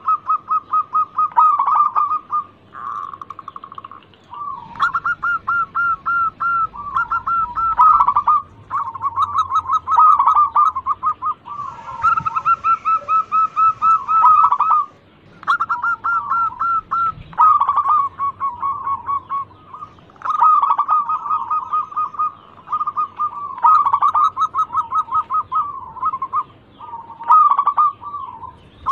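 Local zebra dove (perkutut) in full song: phrases of quick rolling coos at a steady pitch, repeated one after another with brief pauses between them.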